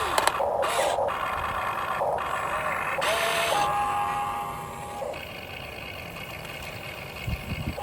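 Huina 1592 remote-control excavator's small electric motors and gears whirring in short start-stop spurts, then a steady high whine for about a second and a half.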